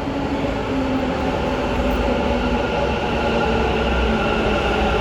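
Bangalore metro train running, a steady whine over a low rumble that grows slightly louder.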